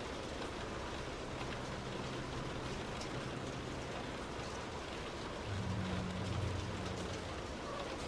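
Heavy rain pattering steadily on a moving car, with the wash of wet road beneath. A low vehicle hum swells louder for a second or two about two-thirds of the way through.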